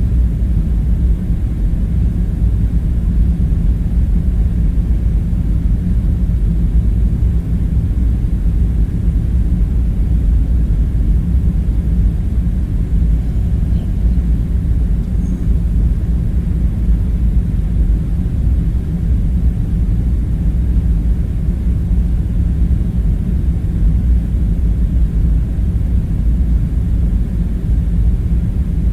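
Steady low rumbling drone with a faint underlying hum, unchanging throughout: the constant background rumble of an ambience soundscape.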